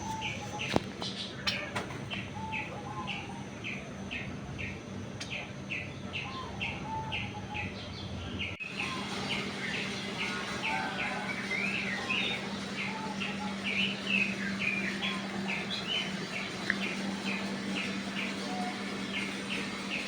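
Small birds chirping: a steady run of short, repeated chirps at about two a second, with other birds calling lower down, over a faint steady hum.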